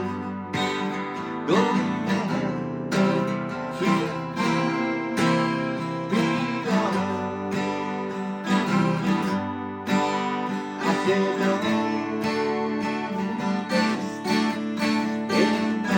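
Acoustic guitar music, strummed steadily, with some singing.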